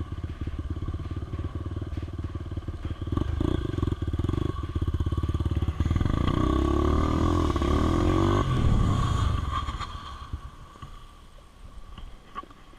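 Motorcycle engine running, louder from about six seconds in, then dying away near the end.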